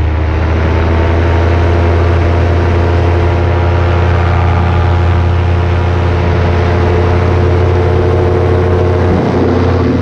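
Paramotor engine and propeller running steadily at cruise power in flight, a loud, even drone. Near the end the engine note dips briefly and comes back up, as the throttle is eased and reapplied.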